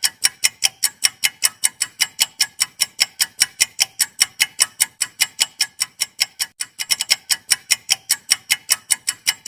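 Clock ticking sound effect used as a quiz answer timer: even, sharp ticks about three a second, cutting off suddenly at the end.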